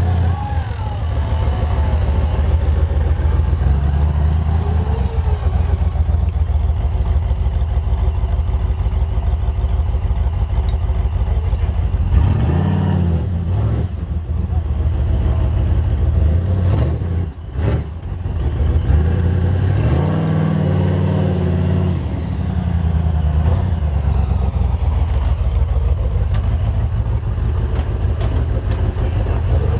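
Toyota FJ45 four-wheel-drive's engine running hard off-road, its revs rising and falling twice, about halfway through and again a few seconds later, with a brief drop in between.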